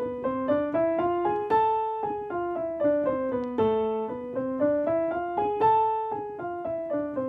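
Piano playing the A harmonic minor scale with both hands an octave apart, running up and down twice in a syncopated rhythm with accented notes, and ending on a held low A.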